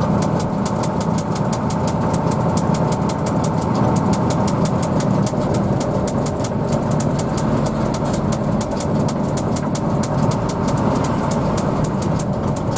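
Hino AK bus engine running steadily, with a low rumble carried through the bus interior and a fast, even high-pitched ticking over it.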